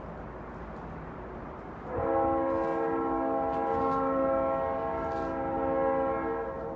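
Train horn sounding a long blast of several steady tones at once, starting about two seconds in and fading near the end, over a low rumble.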